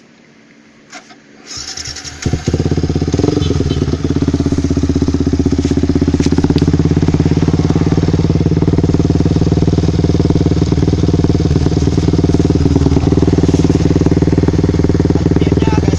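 Yamaha New Vixion Lightning's single-cylinder four-stroke engine started, catching about two seconds in, then idling steadily with an even pulsing beat through a B Pro aftermarket exhaust.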